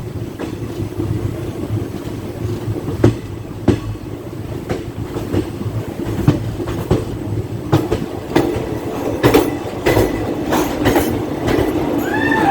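Passenger train running on the rails: a steady rumble with wheels clicking over rail joints, the clicks coming closer together toward the end.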